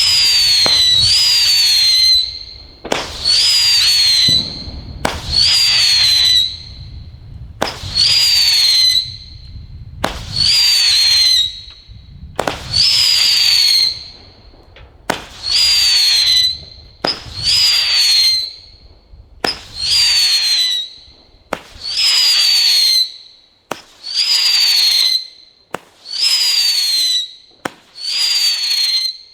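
Weco 'Hard Rain' whistling firework battery firing shot after shot. Each shot is a short launch pop followed by a whistle about a second long that rises briefly and then falls in pitch. There are about twenty shots, one every second or so.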